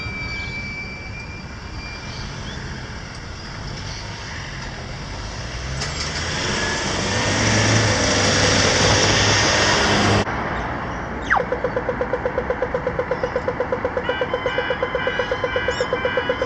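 Road traffic passing a level crossing, a heavy vehicle growing louder past the middle and breaking off suddenly. Then the crossing's warning alarms start: a rapid pulsing tone at about five or six pulses a second, joined a few seconds later by a higher beeping alarm, as the crossing activates for an approaching train.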